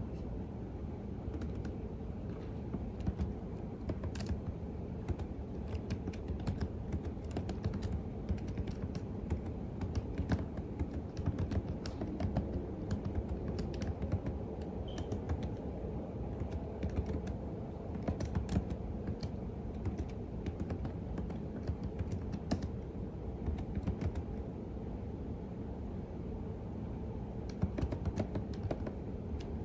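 Typing on a computer keyboard: irregular key clicks that thin out about three-quarters of the way through and pick up again near the end, over steady low background noise.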